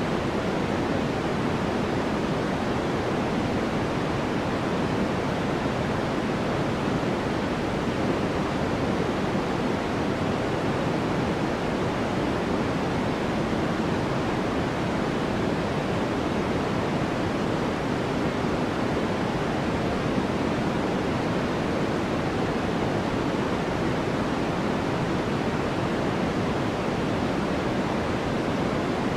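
Steady white-noise track: an even, deep hiss that never changes.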